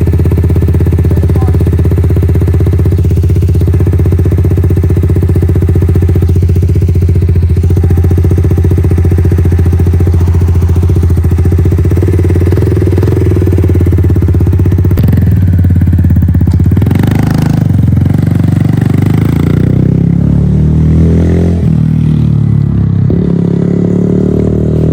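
Semi-automatic dirt bike engine running at a steady speed, then changing pitch from about fifteen seconds in and climbing near the end as the throttle is opened.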